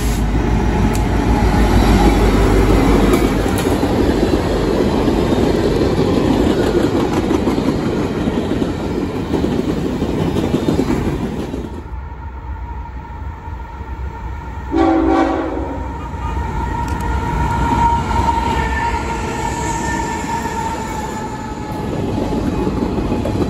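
Freight train rolling past on jointed rail, its diesel locomotives and loaded grain hoppers making a steady rumble. Then a second diesel freight approaches and sounds its air horn in a short loud blast, followed by fainter steady horn tones over several seconds.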